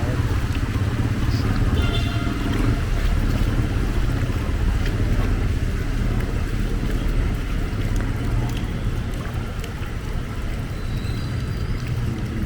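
Street traffic: vehicle engines running and passing in a steady low rumble.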